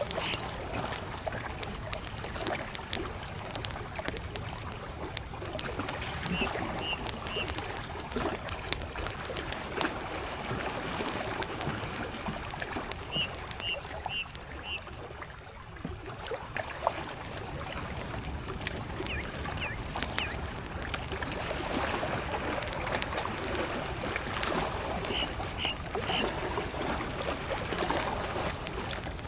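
Lake water lapping steadily against the shore while a campfire crackles and pops, with a few louder single pops. A bird calls three times, each time a short quick series of high notes.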